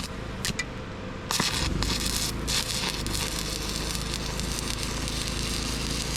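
Stick (arc) welder running 3/32-inch rods on 110 V. A few short sparks and strikes come first, then about a second in the arc settles into a steady crackle laying a tack or short weld on steel plate.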